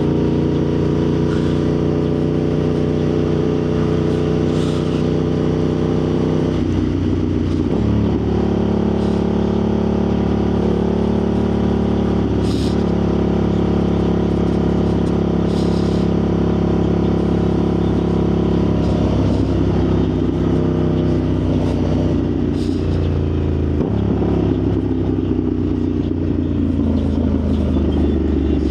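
Motorcycle engine running steadily while riding at speed. The engine note drops and steps back up about seven seconds in, and changes pitch again about two-thirds of the way through.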